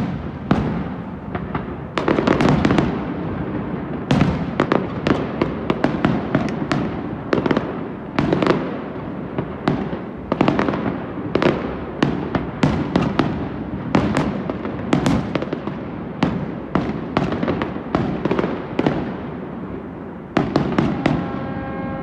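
Aerial fireworks bursting in quick, irregular succession: many sharp bangs, several close together at times, each trailing off in a rumbling echo.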